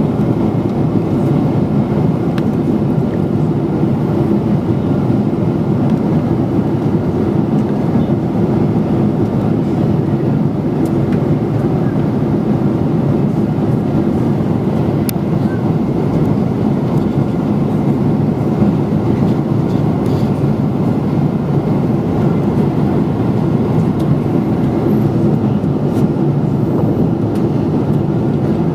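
Steady cabin noise inside a Boeing 777-300ER in flight: an even rush of airflow and the drone of its GE90-115B engines, heard from an economy window seat.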